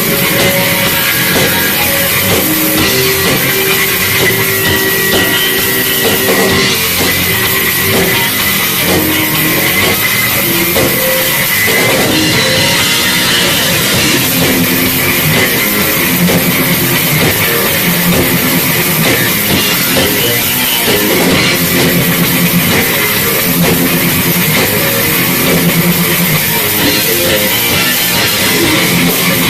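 Live metal band playing loud and without a break: distorted electric guitars over a full drum kit.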